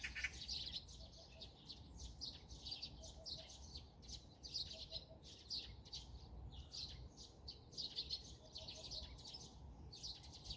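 Several wild birds chirping and twittering in quick, overlapping high notes. A lower three-note call repeats faintly every second or two beneath them, over a soft low background rumble.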